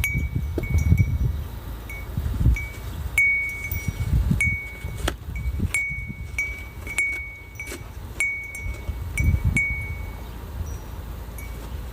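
A wind chime ringing irregularly in a gusty winter storm wind, one clear high tone struck again and again until it stops near the end. Strong gusts buffet the microphone with low rumbling.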